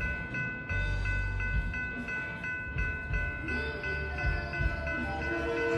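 Railroad grade-crossing bell ringing steadily, about three strokes a second, over the low rumble of a train at the crossing.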